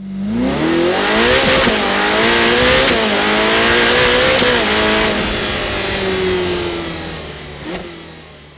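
Porsche 718 Spyder RS's 4.0-litre flat-six accelerating hard through the gears: the note climbs and drops back sharply at each of three quick upshifts, then falls in pitch and fades away.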